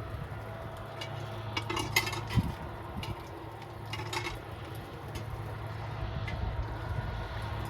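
Cookware clinking in two short clusters, about two seconds in and again about four seconds in, with a low thump between them, over a steady low hum.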